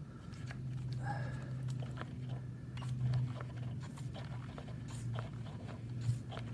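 Faint scattered clicks and handling noises from a Stihl MS192T chainsaw being readied for a cold start, over a low steady hum.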